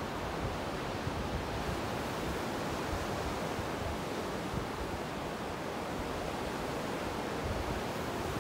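Steady wash of small ocean surf, 1 to 2 foot waves breaking on the beach, heard as an even hiss of water with light wind on the microphone.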